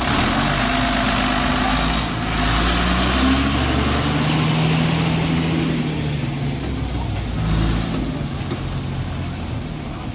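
Heavy diesel engine running under load, its revs rising and falling.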